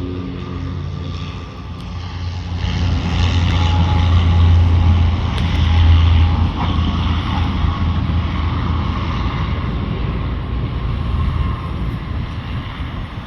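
Military airplane flying past low on its approach. The engine roar swells to its loudest about four to six seconds in, then slowly fades.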